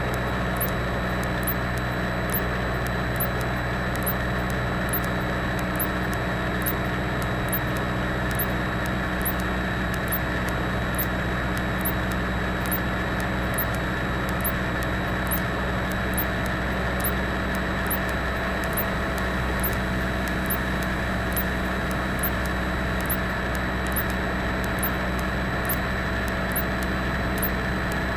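Cessna 172's piston engine and propeller running steadily, heard from inside the cabin, with a thin steady electrical whine and faint regular ticking above it.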